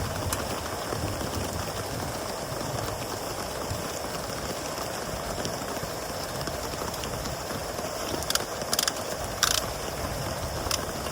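Steady rain at the campsite with insects chirring in the background. A few short sharp clicks come about eight to ten seconds in.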